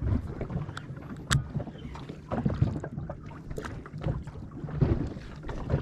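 Water slapping against the hull of a small boat drifting at sea, with irregular low knocks and a few sharp clicks.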